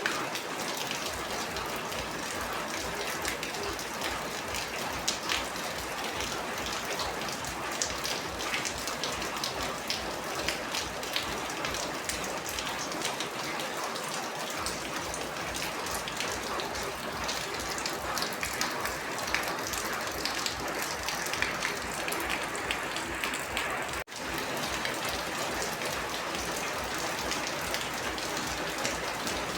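Steady heavy rain, with many individual drops ticking sharply on a surface. About four-fifths of the way through, the sound cuts out for an instant and comes straight back.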